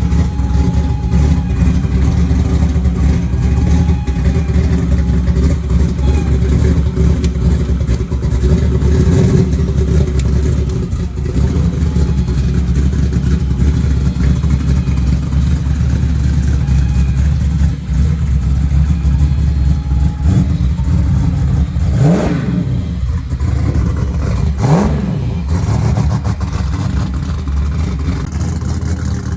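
Car engines running with a steady low rumble. An engine is revved sharply twice, a few seconds apart, about three-quarters of the way through.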